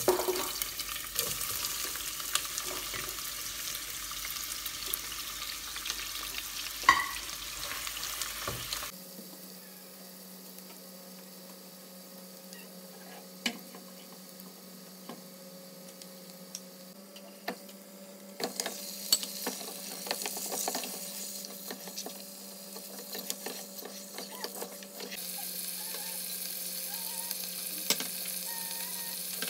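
Sliced onion sizzling as it is tipped into hot oil in a nonstick pot, with a silicone spatula scraping and stirring. The sizzle settles to quieter frying over a steady low hum with scattered clicks, then grows louder again near the end as pieces of mutton are frying in the pot.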